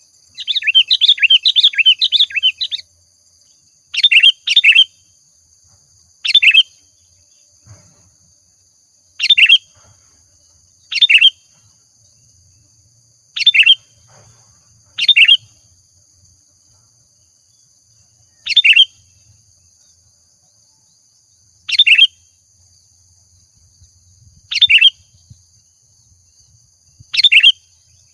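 Sooty-headed bulbul (kutilang) calling: a fast chattering run of bright notes in the first few seconds, then short sharp one- or two-note calls repeated every two to three seconds. A faint steady high-pitched tone runs underneath.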